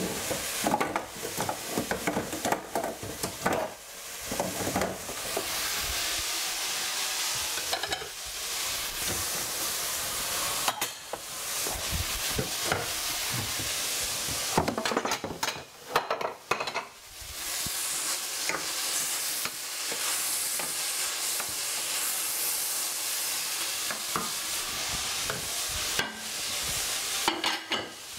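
Mixed vegetables sizzling steadily in a stainless steel frying pan, with a wooden spoon stirring them and scraping the pan in short spells at the start, a few times in the middle and near the end.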